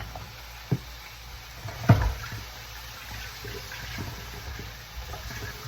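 Water running from a kitchen tap in a steady hiss, with a few knocks of cookware, the loudest about two seconds in.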